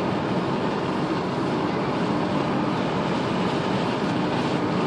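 Steady road and engine noise inside a moving car, an even rush with a faint low hum.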